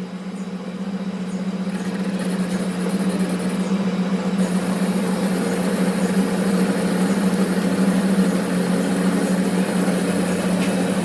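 A machine motor running steadily with a low hum and a broad mechanical noise, growing louder over the first few seconds and then holding even.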